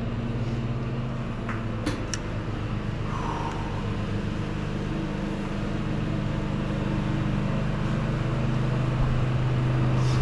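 An engine running steadily at a constant speed, with a couple of light clicks about two seconds in.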